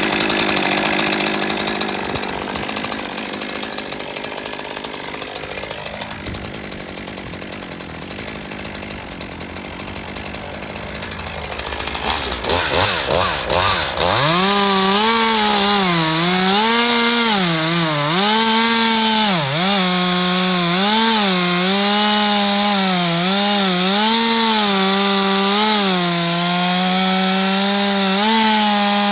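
Stihl MS 201 TC-M top-handle two-stroke chainsaw. For about the first twelve seconds there is a lower, uneven noise; a few short bursts of throttle follow, and from about fourteen seconds in the saw runs loud at high revs, its pitch dipping and recovering again and again as the chain bogs in the wood while cutting.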